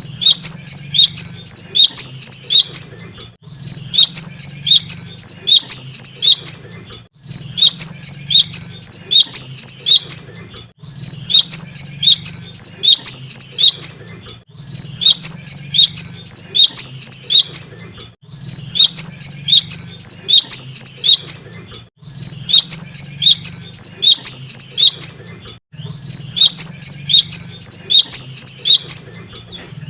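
Cinereous tit (gelatik batu) singing: a fast burst of high, sharp chirps lasting about three seconds, repeated after a short pause about every three and a half seconds, the same phrase each time.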